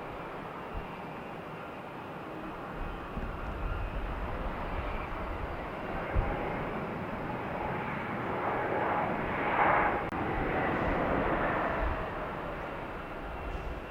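Airplane passing by, its engine noise building to a peak about two-thirds of the way through and then fading.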